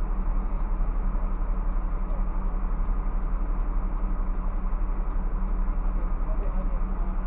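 Scania bus engine running steadily with road noise while the bus is driving, a constant low drone.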